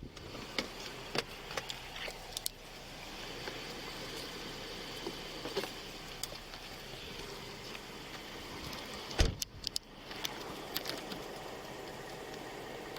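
Steady hum with scattered light clicks and knocks, broken by one loud thump about nine seconds in.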